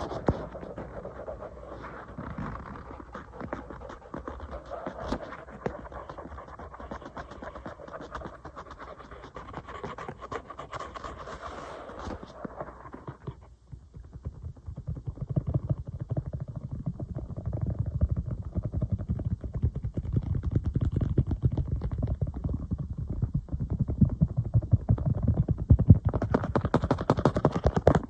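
Fingernails tapping and scratching on an iPad in a fast, dense patter. A little before halfway the sound switches abruptly from a bright, scratchy texture to a deeper, louder one, and near the end the brighter scratching returns.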